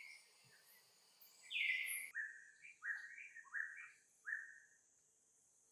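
A baby monkey giving high, squeaky calls, each rising in pitch: one call about a second and a half in, then four short calls in quick succession that stop about four and a half seconds in.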